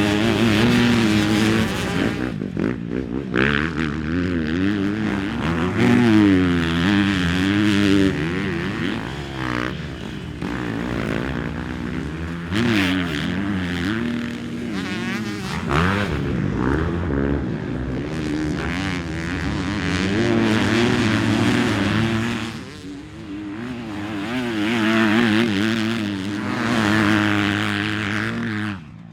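Motocross dirt bike engines revving hard and backing off again and again as the bikes ride the track, the pitch climbing and falling with each throttle change and gear shift.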